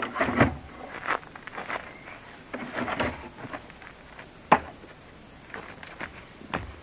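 A scatter of irregular knocks and clicks with some rustling, the sharpest single knock about four and a half seconds in.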